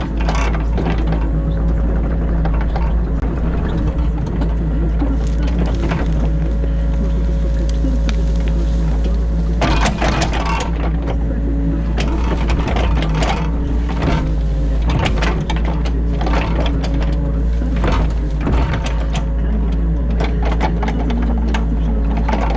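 New Holland E50.2 mini excavator heard from inside the cab: the diesel engine running steadily under working load, with repeated knocks and scrapes as the bucket digs silt from the ditch, busiest about ten seconds in.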